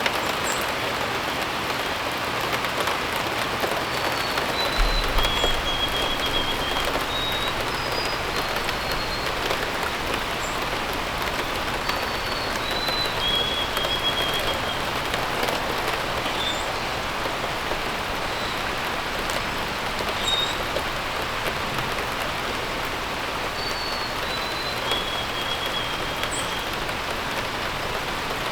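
Steady rain falling. A bird sings three times over it: each time a short phrase of a few whistled notes stepping down in pitch. A few brief high chirps come in between.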